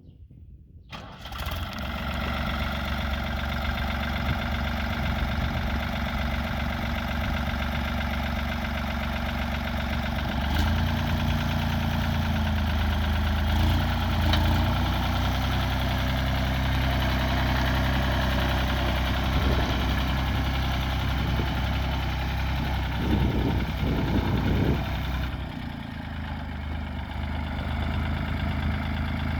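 Fiat-Hesston 55-46 tractor's diesel engine running steadily. About ten seconds in its pitch rises a little and holds higher, then settles lower a few seconds before the end.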